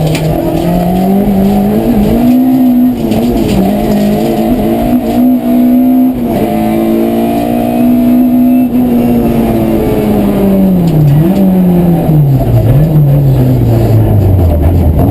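Rally car engine under hard throttle, its pitch rising and then holding high for several seconds. Past the middle the revs fall away, with two short dips, and sink low near the end before picking up again, as the car slows for a corner.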